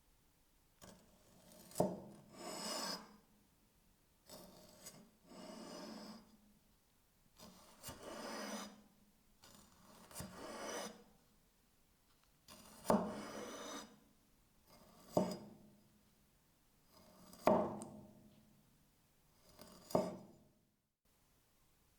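About eight hand-worked rasping strokes, each a second or so long and most opening with a sharp tap, separated by short pauses.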